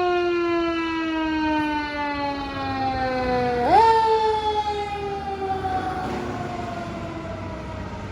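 Federal Q mechanical siren on a fire engine winding down in a slowly falling wail. About three and a half seconds in it is spun up again, so the pitch rises quickly, then it coasts down once more and fades.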